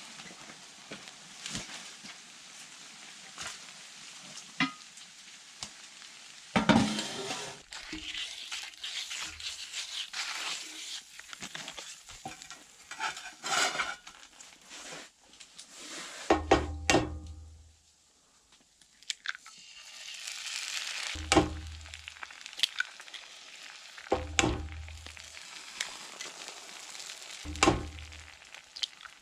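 Food sizzling in a pan on a wood stove, with many clicks and knocks and four dull thumps in the second half.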